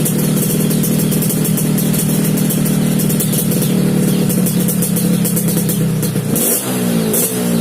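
Yamaha RX-King's 135 cc two-stroke single-cylinder engine idling steadily through a standard-style racing exhaust, then revved about six seconds in.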